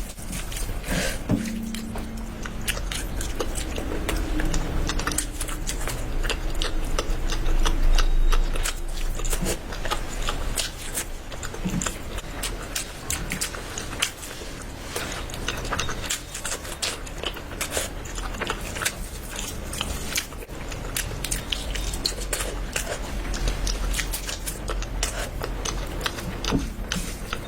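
Close chewing and biting of food, with many irregular crunchy clicks.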